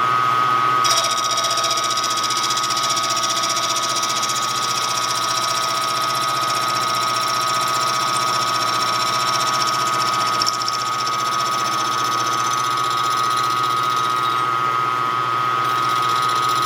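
Milling machine running steadily with a high whine, its cutter milling a slot into a small wrist pin; a brighter hiss from the cut comes in about a second in and eases off near the end.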